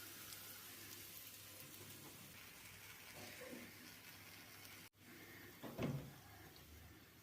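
Near silence: a faint steady hiss of room tone, with one brief soft knock about six seconds in.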